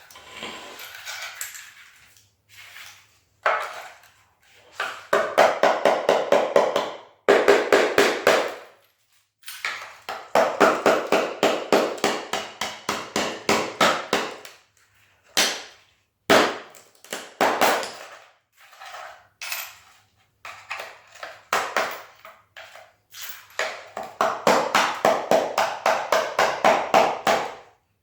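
Hammer striking a thin steel chisel to chip and lever up a stuck floor tile: rapid runs of sharp blows, several a second, in bursts with short pauses between them.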